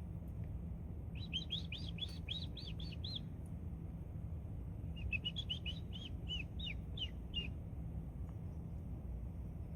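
Small bird chirping in two quick runs of high, arched chirps, about four or five a second: one near the start and one in the middle, over a steady low background rumble.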